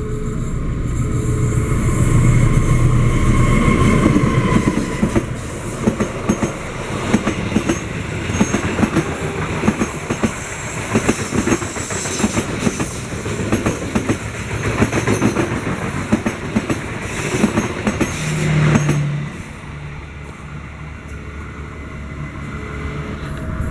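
A GE CC 206 diesel-electric locomotive passes close by with its engine running, followed by passenger coaches whose wheels clack in a rapid, regular rhythm over the rail joints. About twenty seconds in the sound drops away as the end of the train passes.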